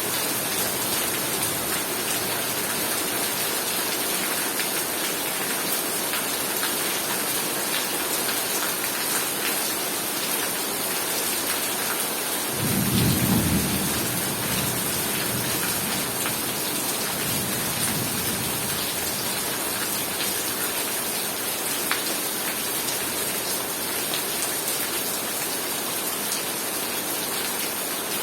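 Heavy rain falling steadily. A low rumble of thunder comes about twelve seconds in, and a fainter rumble follows a few seconds later.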